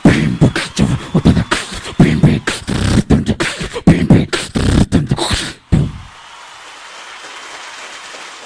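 Beatboxing: a performer's rapid vocal percussion, a dense run of sharp mouth-made strokes that stops abruptly about six seconds in. A steady faint hiss follows.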